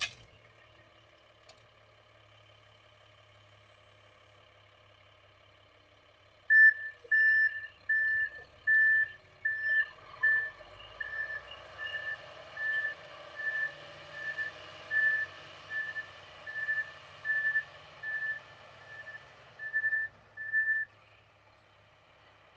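A vehicle's reversing alarm beeping at a steady pace, one high tone about one and a half times a second. It starts about six seconds in and stops near the end.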